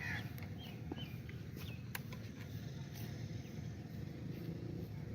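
Faint outdoor ambience: a steady low rumble with a few short, high bird chirps and some light ticks.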